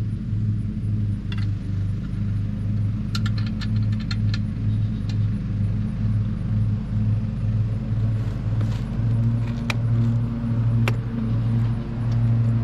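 A small engine idling steadily with a low pulsing hum. Metal tools and parts clink against each other now and then, in a cluster a few seconds in and with two sharper strikes near the end.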